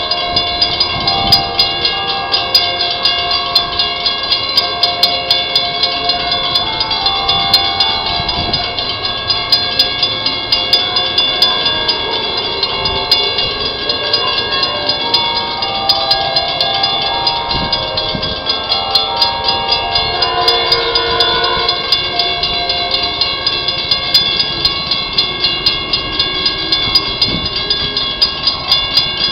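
Railroad grade-crossing bell ringing in a fast, steady rhythm, with the rumble of a Metrolink train underneath.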